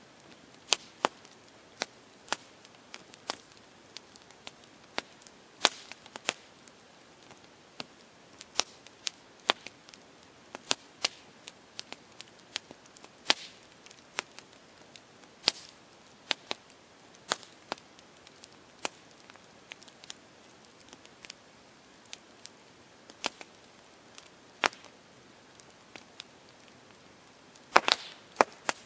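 Campfire crackling: irregular sharp pops and snaps of burning wood over a faint steady hiss, with a quick cluster of louder pops near the end.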